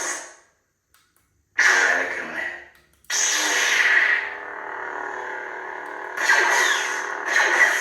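NeoPixel lightsaber's sound-font effects: the blade sound dies away at the start, a short burst about one and a half seconds in fades out, then at about three seconds the blade ignites and hums steadily. It swells twice near the end, as with swings.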